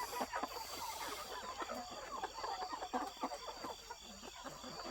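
A crowded flock of chickens clucking and chattering, many short calls overlapping without a break.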